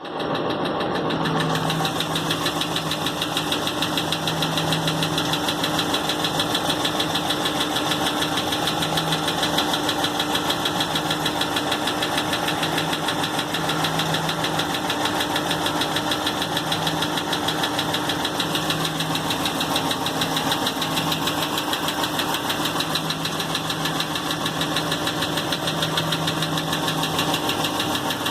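6.4-litre Hemi V8 engine running steadily at an even speed with a rapid, regular ticking knock throughout, which the owner calls an engine knock.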